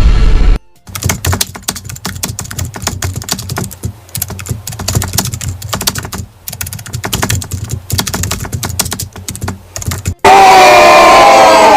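Computer keyboard typing sound effect: rapid, irregular key clicks for about nine seconds. It starts just after a louder effect cuts off, and near the end a short, loud sound with sliding pitches cuts in.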